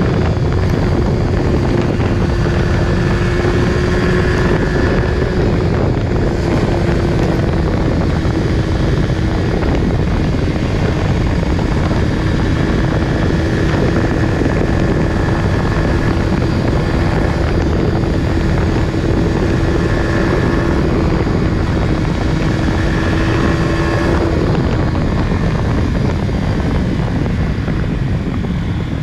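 Yamaha R15 V3's 155 cc single-cylinder engine running through its stock exhaust, holding a steady cruising note under heavy wind and road rush. The engine note drops away about 24 seconds in, leaving mostly the rush.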